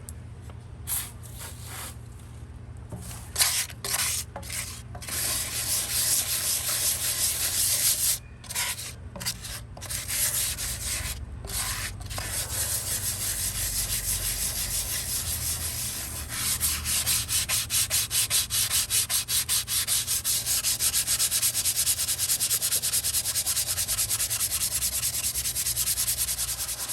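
Scouring pad scrubbed by hand over the enamel of a 1948 porcelain sink, a rasping back-and-forth rub as stubborn staining is worked off. The strokes come in short spells with pauses at first, then settle into a steady, quick run of strokes from about the middle on.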